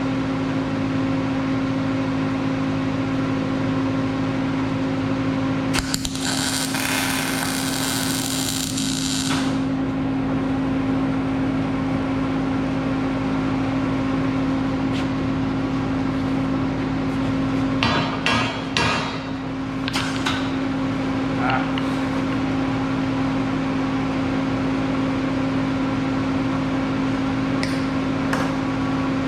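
Welding machine humming steadily while bolts are welded on as wheel studs. About six seconds in, a burst of welding-arc sizzle lasts some three seconds. Later come a few sharp metal taps and clinks.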